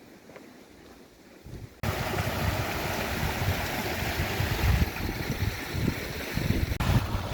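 Wind buffeting the microphone: a gusty low rumble under a steady rushing hiss, starting suddenly about two seconds in after a quieter start.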